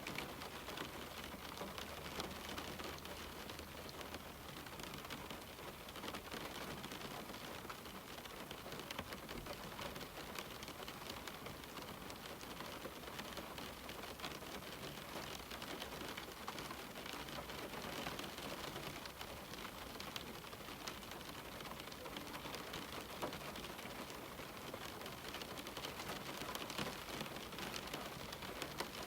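Steady rain on a window: an even hiss with many small drops ticking against the glass.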